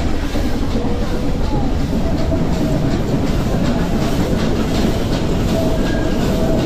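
Nilgiri Mountain Railway metre-gauge train running: a steady loud rumble and clatter of the carriages on the track, with a few brief, faint, thin squeals of wheels on the curves.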